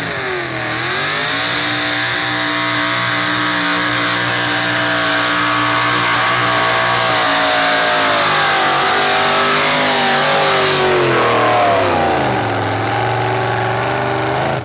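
Truck engine running hard at high revs under load, with its pitch dipping briefly about half a second in and again near the end before climbing back; the sound cuts off suddenly at the end.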